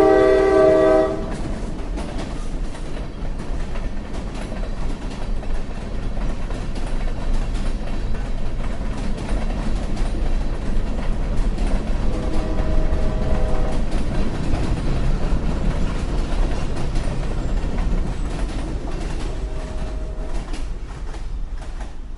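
Train horn sounding loudly for about a second, then the steady rumble of the moving train, with a second, fainter horn blast about halfway through.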